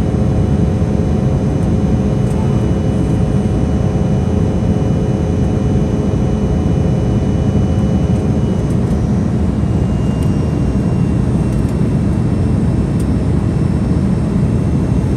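Steady cabin roar of an Embraer E175 regional jet, heard from inside the cabin: a deep steady rush of engine and airflow noise from its GE CF34-8E turbofans, with faint steady whining tones, a few of which fade about nine seconds in.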